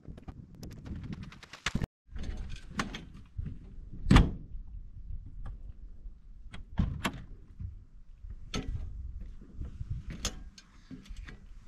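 Clunks, knocks and door thuds from a truck camper being broken down for travel: a string of sharp knocks, the loudest about four seconds in.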